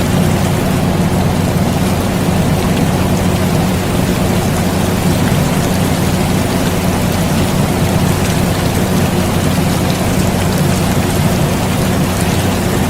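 Steady rain falling, with the constant low hum of an air conditioner running underneath.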